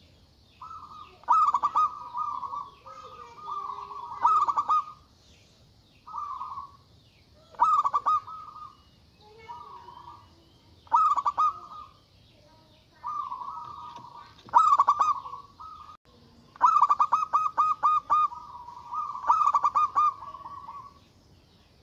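Zebra dove (perkutut) in full song, giving a series of loud rolling coos, each phrase a fast stutter of pulses, with short pauses between phrases.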